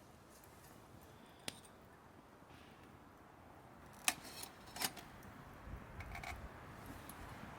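A few sharp clicks over a quiet background, the two loudest under a second apart about four seconds in.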